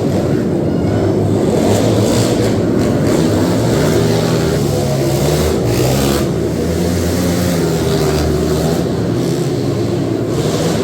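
Racing quad (ATV) engines revving up and down as they race.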